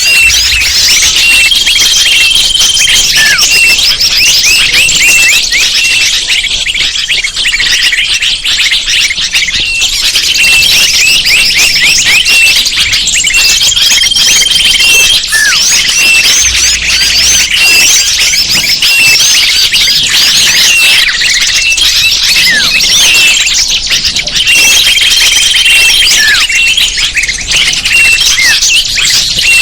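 Bird-lure recording: a dense chorus of many small songbirds chirping and twittering rapidly in high, thin notes, the same stretch of calls repeating in a loop about every 12 seconds.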